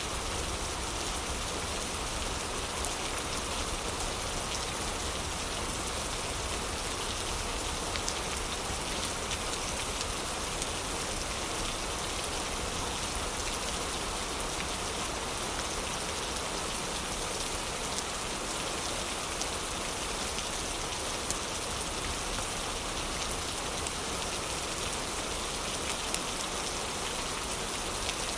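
Steady heavy rain, with now and then a faint crackle or pop from a wood fire in a fireplace.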